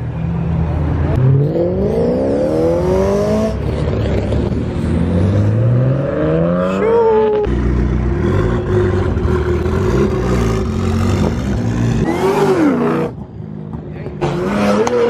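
A performance car engine revved hard several times. The pitch climbs steeply twice in the first half, holds at a steady high rev for a few seconds, then rises and falls once more before a short lull near the end.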